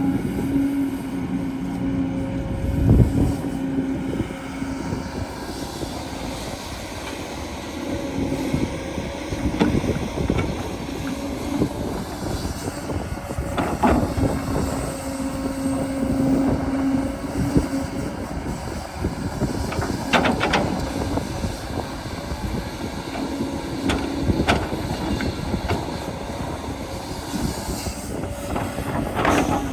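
Small electric motors of a radio-controlled excavator whining in runs of a few seconds, with scraping and knocking of the machine working dirt and a few sharp clicks.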